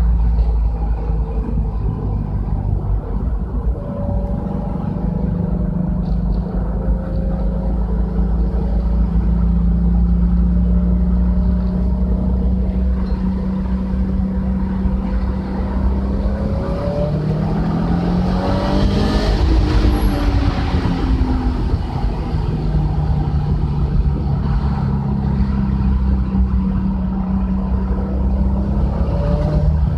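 Subaru Legacy's flat-four engine and exhaust running at a steady engine speed, on a fuel-correction map whose start and end points have been changed. About halfway through the engine revs up and back down over a few seconds.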